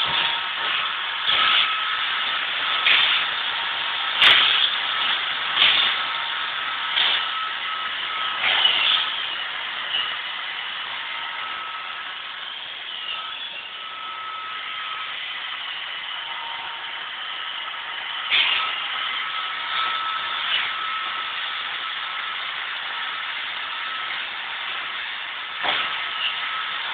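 Roomba robot vacuum running: a steady whirring hiss with a thin whine, broken by sharp knocks, several in the first ten seconds, one a little past the middle and one near the end.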